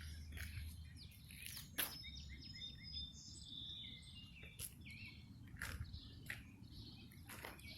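Small birds chirping: a busy run of short high chirps and brief whistles, over a steady low rumble, with a few soft knocks here and there.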